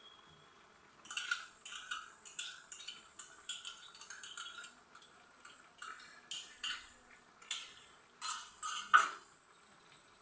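A spoon stirring chicken and curd in a cooking pot, scraping and knocking against the pot in quick strokes about two a second, with the loudest knock near the end, as the curd is mixed into the braising meat. The strokes start about a second in and stop about a second before the end.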